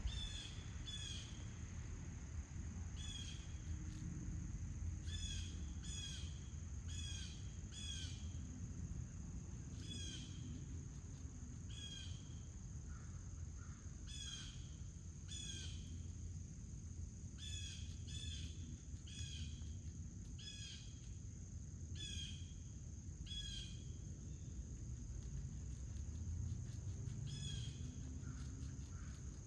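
A bird calling with short chirps, repeated about once a second and often in pairs, over a steady high insect drone and a low outdoor rumble.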